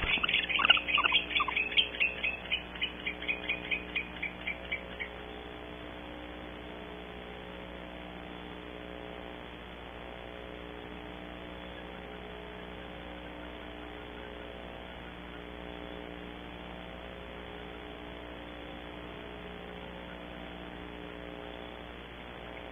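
Barn owls twittering: a rapid run of high chirps, with a few lower falling notes about a second in, slowing and stopping about five seconds in. After that only the steady electrical hum of the nest-cam microphone remains.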